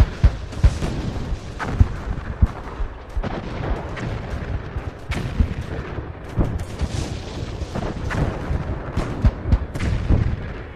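Recreated First World War artillery barrage: irregular heavy gun booms and shell bursts, some close together, over a continuous low rumble of distant firing.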